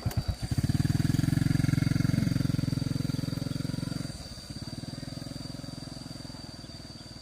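Motorcycle engine pulling away: it revs up about half a second in, eases off about four seconds in, and fades as the bike rides off.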